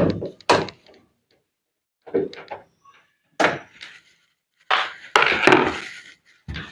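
Knocks and clatter of a top-load washing machine's cabinet panel being handled and pulled off. About five seconds in there is a longer rasping noise, then another knock.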